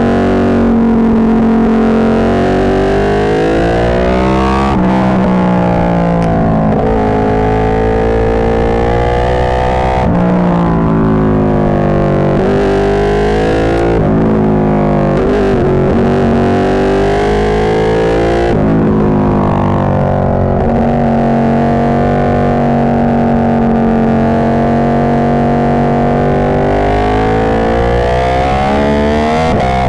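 Ducati 1299 Panigale's L-twin engine, through a full Austin Racing GP2 exhaust, under way: pitch climbs and drops back sharply several times as it goes through the gears, then holds steady for a long stretch before easing off near the end. The sound is distorted because the microphone, too exposed to the exhaust, was blowing out.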